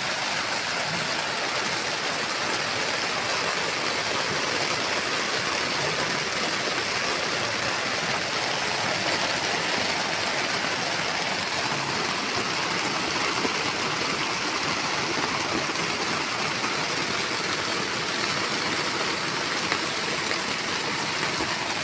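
Heavy rain falling steadily on a tent, an even hiss with no letup.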